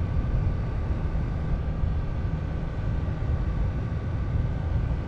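Steady wind rumble on the microphone with a faint, even vehicle hum underneath, typical of a motorcycle out on the road.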